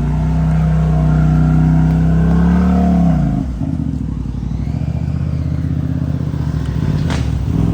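Side-by-side UTV engine held at high revs on a steep climb, then the revs drop off about three seconds in and it settles to a lower, uneven running. A single sharp click comes near the end.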